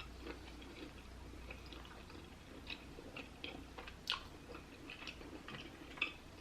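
Close-up chewing of dipped lobster meat: soft, wet mouth sounds and small clicks, with a sharper click about four seconds in.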